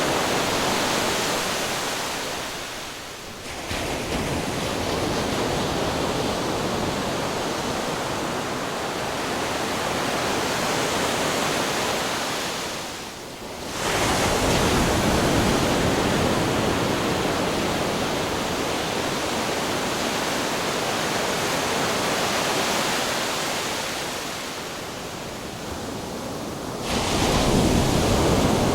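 Ocean waves crashing on rocks: a continuous rush of surf that drops briefly about three seconds in and again about thirteen seconds in, each time followed by a fresh wave breaking, with another surge near the end.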